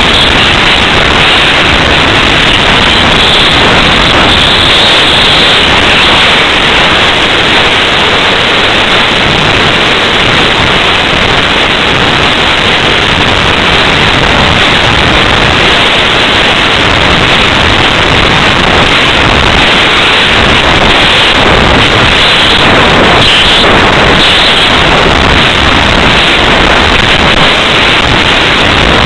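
Loud, steady rush of airflow over the microphone of a small camera mounted on a slope-soaring radio-control glider in flight.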